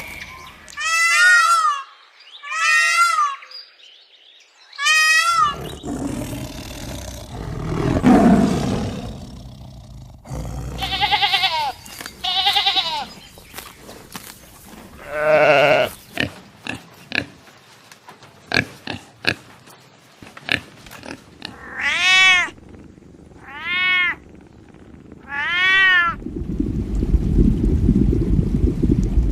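A run of animal calls, several different animals in turn: three wavering bleat-like calls at the start, a rough low call in the middle, further pitched calls in twos and threes, and a steady low rumble near the end.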